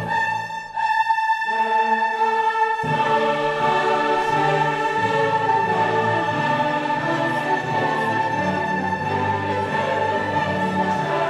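Slow classical orchestral music with choral singing: long held chords. The low parts thin out for a moment near the start and come back in fully about three seconds in.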